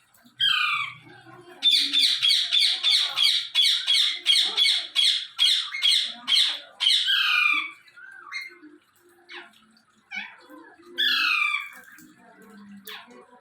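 Parrot squawking: a falling call, then a loud run of harsh squawks about three a second for some six seconds, followed by scattered softer calls and one more falling squawk near the end.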